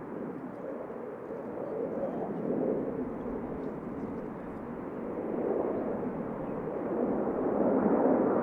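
Jet engine noise from Blue Angels F/A-18 Super Hornets, a steady rumble that grows louder as the jets close in.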